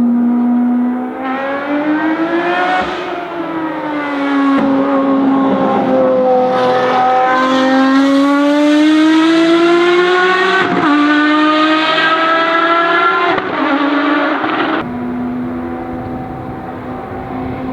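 Ferrari FXX Evoluzione's V12 accelerating hard through the gears: the engine note climbs in pitch and drops back sharply at each upshift, about five times. After that it settles into a steadier drone near the end.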